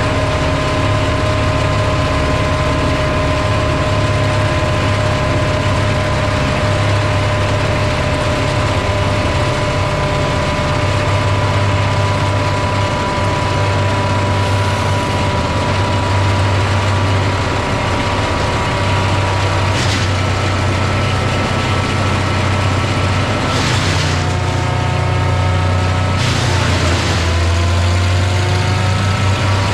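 A motor-driven machine running steadily with a low hum and a steady whine. Several short, louder rasping bursts come late on, during which the whine dips in pitch and then climbs back.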